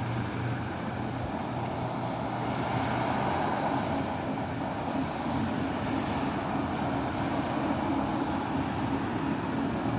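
Motorboat engines running with a steady low drone, mixed with wind and water noise; the hiss swells a little a few seconds in.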